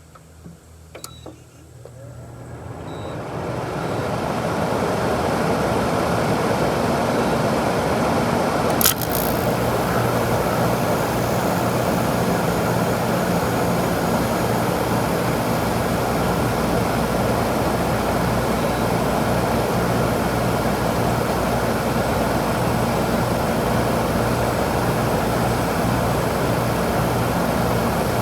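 A 2001 Kenmore 8,000 BTU R-22 window air conditioner built by WCI, heard from its back by the compressor and condenser coil, starting up after a long idle. It builds up over about two seconds into a steady running noise with a low hum, and a single sharp click comes about nine seconds in.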